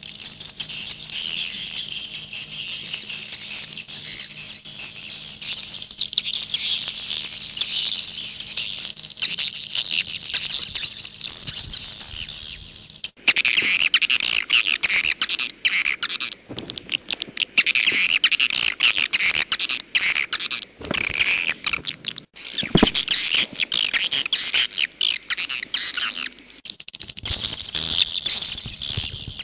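Swiftlets twittering: a dense, continuous chatter of high chirps. About thirteen seconds in it cuts off abruptly, then the chatter comes back in spurts broken by short gaps.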